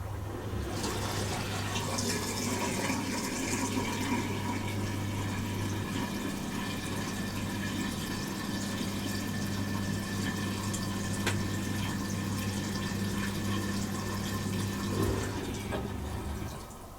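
Bosch Serie 4 SMS46MW05G dishwasher running, with water rushing inside over a steady low hum. The water starts about a second in and stops shortly before the end.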